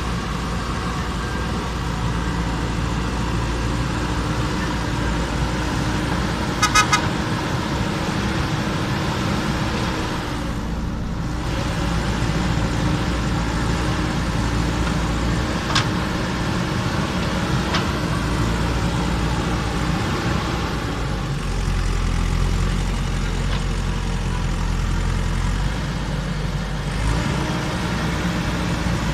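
JCB backhoe loader's diesel engine running steadily under load while it digs, with three quick horn toots about seven seconds in.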